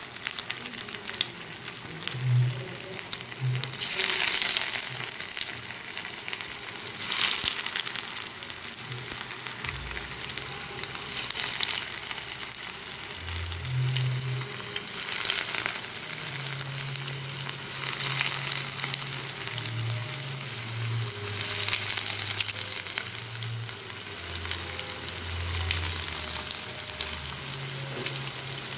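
Breadcrumb-coated stuffed mushrooms shallow-frying in hot oil in a nonstick pan, a steady sizzle. It flares up every few seconds as another piece goes into the oil.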